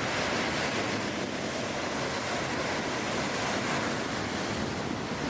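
Steady rushing noise, an even hiss with no rhythm or breaks.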